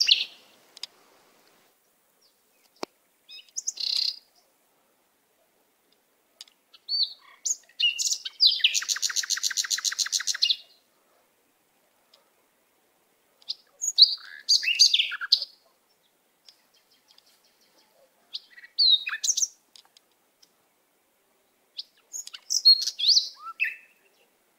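A bird singing in short bursts of high, varied chirps and quick whistled glides every few seconds. About a third of the way in comes a fast rattling trill lasting about two seconds.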